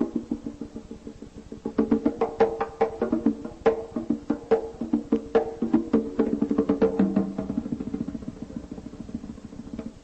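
Instrumental passage of live Afro-Brazilian folk music: sharp, rapid percussion strikes over a steady pitched accompaniment, with no singing. It thins out briefly about a second in, then picks back up.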